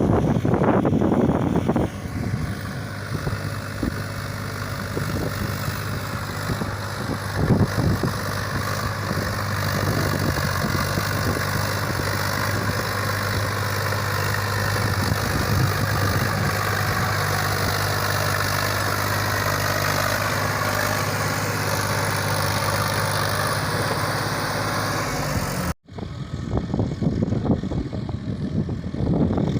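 Tractor diesel engine running at a steady pitch. It is cut off abruptly near the end and replaced by a rougher rumbling noise.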